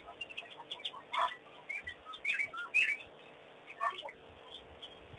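Wild birds calling: a scattering of short chirps and sharp notes, about half a dozen, the strongest a little after one second in and again near four seconds.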